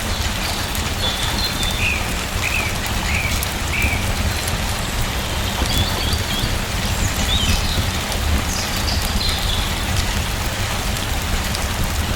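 Steady rain falling, with runs of short high bird chirps over it several times.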